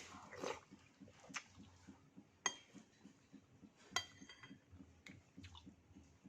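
A utensil clinking against a dish a few times while eating, with two sharp ringing clinks about two and a half and four seconds in, and softer small handling noises between them.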